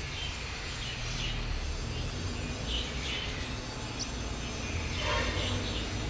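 Small birds chirping in short, high, downward-sweeping calls, the clearest clusters about three seconds in and again near the end, over a low steady rumble of outdoor noise.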